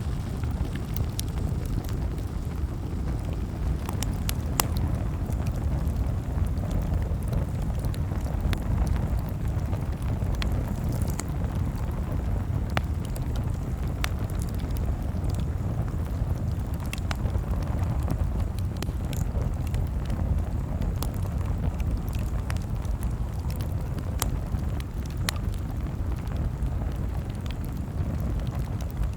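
Campfire crackling: scattered sharp pops and snaps, a few every couple of seconds, over a steady low rumble.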